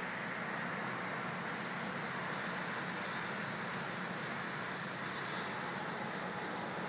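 Steady city noise through an open window during a snowstorm: a constant haze of distant street traffic and wind.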